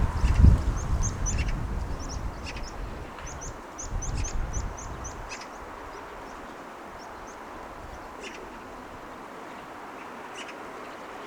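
Small birds chirping in a quick run of short, high chirps, thinning out after about six seconds. A low rumble under the first few seconds dies away, leaving a steady faint background hiss.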